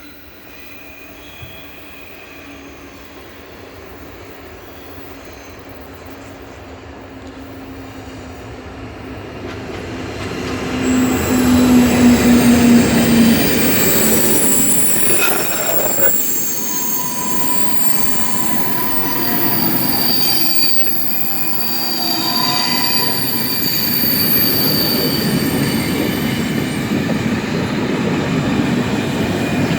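Train running on rails, growing louder over the first ten seconds or so and then holding steady, with high-pitched wheel squeal over the rumble.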